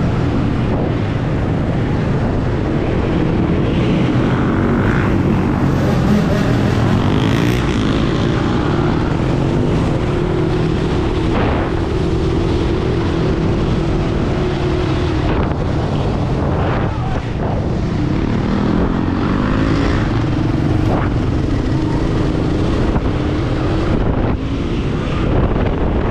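Steady wind rushing over the microphone of a GoPro on a moving electric dirt bike, with a low tone that rises and falls as the riding speed changes.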